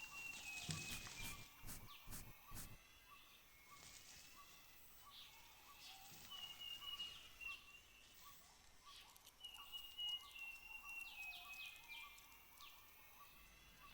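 Faint rainforest ambience: a bird repeats a high whistled phrase of held notes stepping down in pitch, three times, over a steady chorus of short evenly spaced pips. A few sharp clicks and rustles come in the first few seconds.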